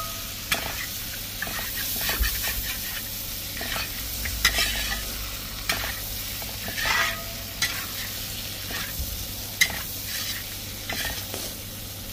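Beef and masala frying in the beef's own rendered fat, sizzling steadily while a spoon stirs them, scraping and knocking against the pan now and then.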